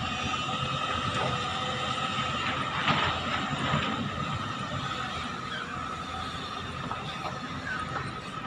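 Excavator's diesel engine and hydraulics working, a steady drone with a constant high whine over it and a brief knock about three seconds in.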